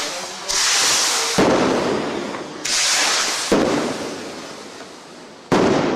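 Fireworks going off: three times a high hiss, like a firework shooting up, ends in a sharp loud bang that fades away, the bangs about two seconds apart.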